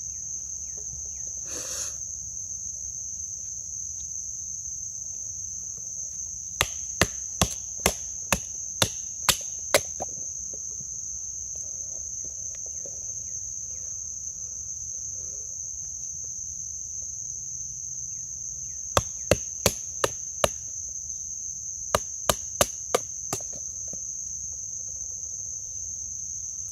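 Batoning: the spine of a thin-stock CPM 154 knife struck with a baton to drive it through a knotty piece of wood, in three runs of quick strikes, about three a second (roughly nine, then five, then five). Under it, a steady high drone of insects.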